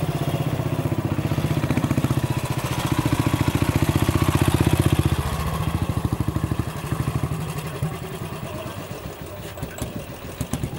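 Royal Enfield Bullet single-cylinder engine running with a rapid, even beat. It grows louder for a couple of seconds around the middle, then falls back quieter.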